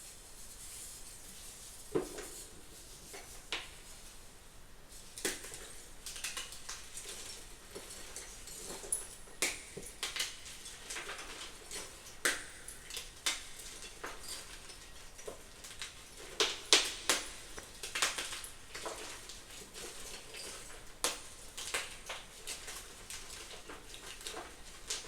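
Blocks of crunchy gym chalk being crushed, giving irregular crisp crunches and crackles, some sharper and louder than others, with a loud cluster of snaps about two-thirds of the way in.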